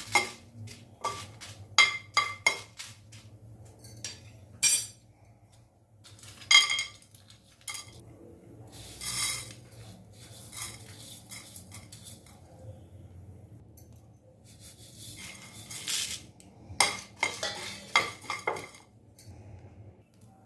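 Whole spices (coriander, cumin, dried chillies) being stirred and tossed while dry-roasting in a pan: a spatula clinks and scrapes against the pan in bursts of sharp clicks, with a few longer scraping stretches between pauses.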